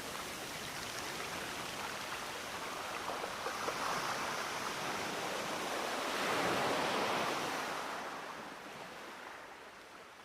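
Sea waves washing ashore, swelling twice with the louder surge about six to seven seconds in, then fading away.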